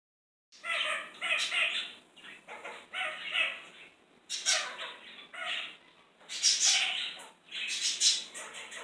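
Kakariki parakeet calling: a run of short, pitched chattering calls in bursts about a second apart.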